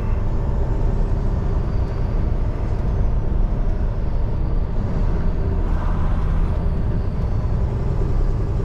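Semi-truck's diesel engine running steadily as the truck drives, a low, even rumble heard from inside the cab.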